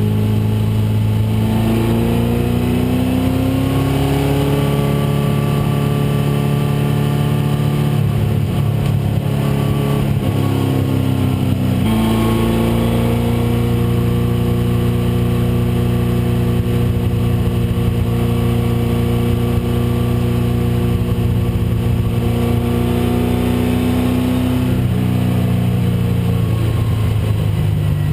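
1996 Ford Mustang race car's engine running hard under load, its pitch climbing slowly. About twelve seconds in there is a gear change, then another long climb, and the revs drop near the end.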